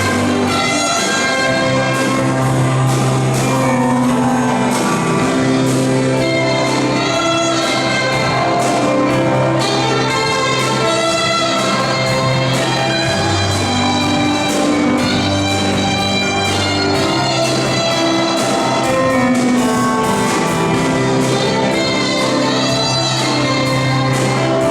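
Brass band playing a fanfare-style piece: held brass notes over a steady bass line.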